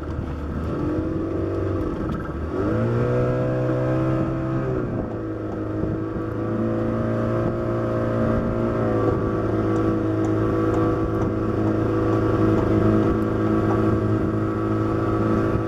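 Boat engine running under way, its pitch climbing sharply a couple of seconds in, then easing down in steps as the throttle changes.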